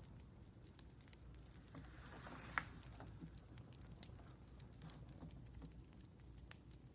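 Faint crackling of a wood fire: scattered small pops, with a short swell and a sharper pop about two and a half seconds in and another pop near the end.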